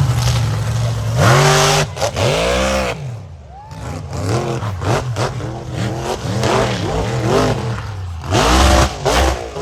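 Mega truck's big engine revving hard in repeated surges, its pitch climbing and falling again and again, as the truck tries for a power wheelie. The loudest surges come about a second in and near the end.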